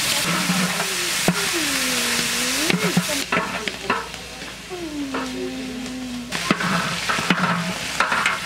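Chicken pieces sizzling in hot oil in a large aluminium cooking pot while a long-handled metal spatula stirs and scrapes through them, knocking against the pot's side now and then. The sizzle is loudest for the first three seconds and quieter after, and two drawn-out sliding squeals come through near two and five seconds in.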